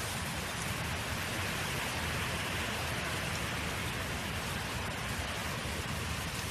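Wind blowing across a field: a steady, even hiss over a low rumble, with no changes or distinct events.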